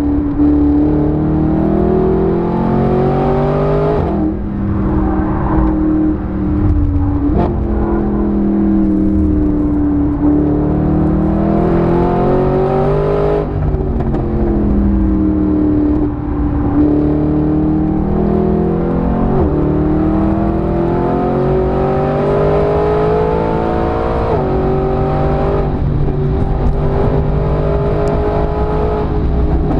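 Mercedes-Benz SLS AMG's naturally aspirated 6.2-litre V8 at full load on track, its engine note repeatedly climbing in pitch and breaking off abruptly at gear changes, then falling back as the driver eases off.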